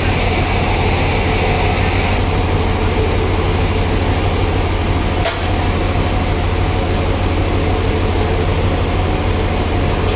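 Sawmill machinery running steadily with a strong low hum. A higher whine drops away about two seconds in, and there is a single short click about five seconds in.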